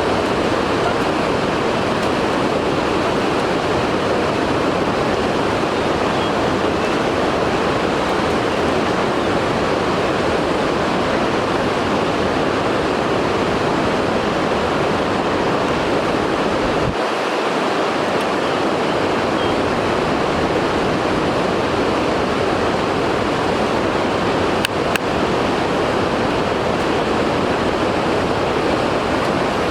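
A steady, even rushing noise, with a single short click near the end.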